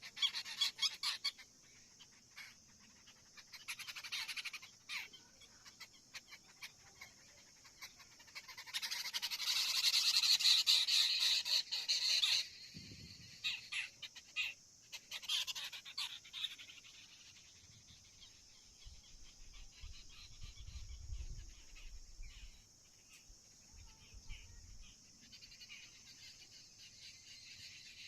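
Birds calling in harsh, buzzy bursts, with one dense, loud buzzing stretch of about three seconds near the middle, then fainter scattered calls.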